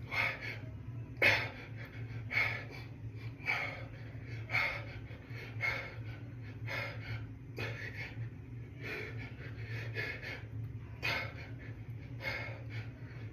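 A man's heavy, rhythmic breathing from exertion during dumbbell hammer curls: a short forceful exhale about once a second, over a steady low hum.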